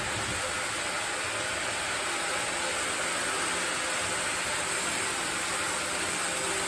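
Sawmill machinery running: a steady, even rushing noise with a faint hum underneath.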